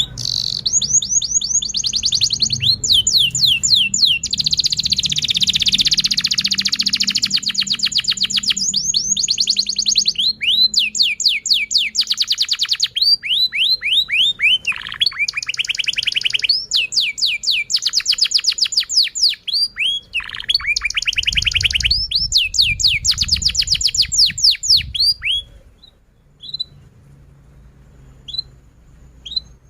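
Domestic canary singing a long, continuous song of rapid repeated trills and fast series of downward-sweeping chirps, changing from one phrase to the next. The song breaks off about 25 seconds in, leaving only a few single chirps.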